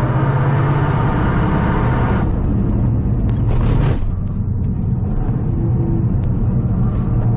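Toyota GR Yaris's turbocharged three-cylinder engine heard from inside the cabin on a circuit lap, pulling hard until about two seconds in, then lifting off as the car brakes for a corner. A few short sharp bursts of noise follow around three to four seconds in, and the engine runs on at lower revs after that.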